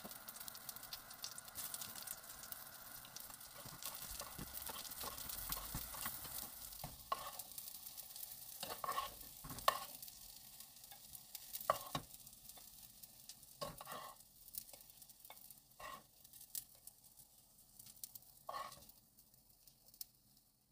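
Shiitake mushroom caps sizzling in oil in a nonstick frying pan. Starting about a third of the way in, a wooden spatula knocks and clicks several times against the pan and plate while the sizzle fades.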